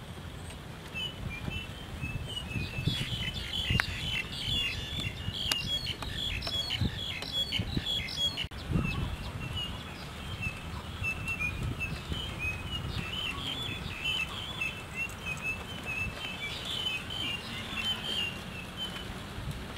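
Small birds chirping in quick runs of short high notes, over a low rumble with a few soft knocks.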